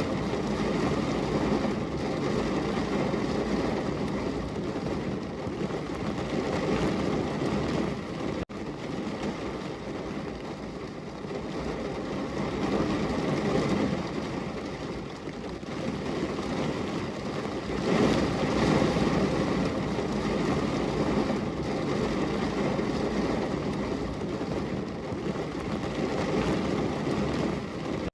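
Heavy rain pouring on a window: a dense, steady rush with a deep rumble, swelling and easing every few seconds, with a brief dropout about eight seconds in.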